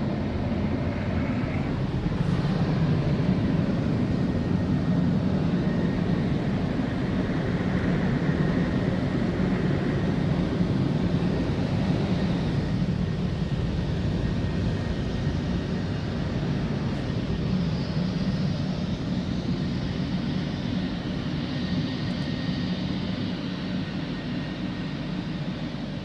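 Automatic car wash machinery running, heard from inside the car's cabin: a steady, loud roar.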